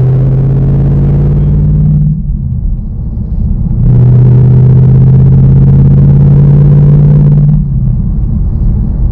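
2019 Ford Mustang Bullitt's 5.0-litre V8 engine running under power with a steady tone. It drops off about two seconds in, comes back about four seconds in and holds steady, then eases off near the end.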